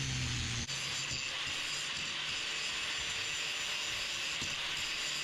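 Power grinding of a stacked steel billet for a Damascus knife, ground flat: a steady abrasive hiss.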